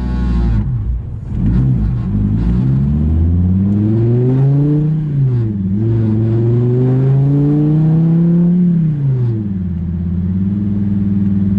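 2016 Dodge Viper ACR's 8.4-litre V10 pulling through its rebuilt side-pipe exhaust: revs climb, dip at a gear change about five seconds in, climb again, then drop off near nine seconds and settle to a steady cruise.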